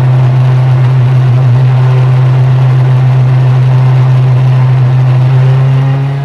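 Ferrari F430 GTC/GT2's naturally aspirated 4.0-litre V8 running loud and steady with a deep, even note, then dropping in level about six seconds in.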